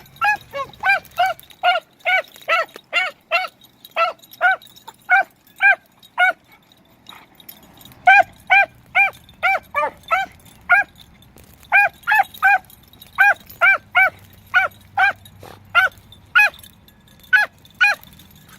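Beagles giving tongue while running a rabbit track: a rapid string of short, repeated barks, about two to three a second, with a short break about seven seconds in.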